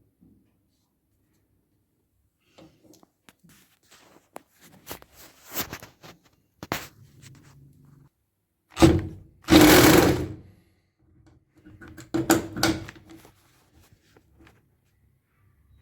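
Irregular knocks and scrapes of parts being handled during washing-machine repair work, with a loud rasping clatter about nine to ten seconds in and another cluster of knocks a little later.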